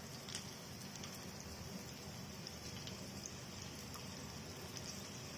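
Green chillies and julienned ginger frying in hot vanaspati in a small kadai: a steady sizzle with occasional faint pops, the tempering being fried lightly.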